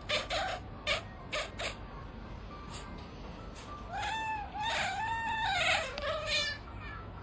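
A cat meowing: a few short sounds in the first two seconds, then a run of several drawn-out meows rising and falling in pitch, starting about four seconds in.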